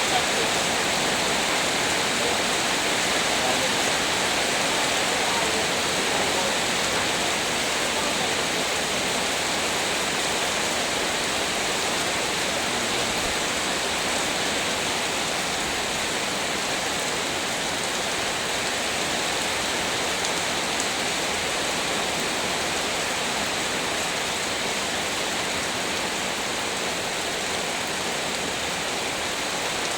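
Heavy rain pouring down, a steady hiss that does not let up.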